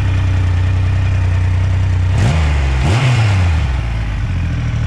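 Triumph Rocket 3 TFC's 2.5-litre inline-three engine idling through its Arrow carbon silencers, blipped twice about two and three seconds in, the revs rising sharply and falling back to a steady idle.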